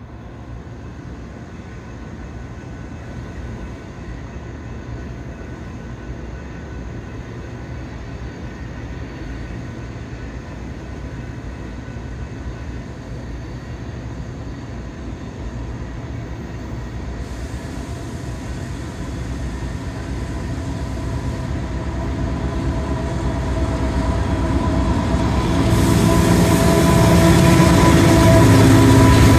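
CSX freight train approaching along the tracks, a low rumble that grows steadily louder, with steady whining tones joining in over the last few seconds as it draws close.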